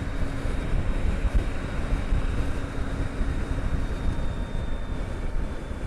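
Steady rush of wind and road noise on a helmet-mounted camera while riding a Harley-Davidson LiveWire electric motorcycle, with a faint steady high whine through it.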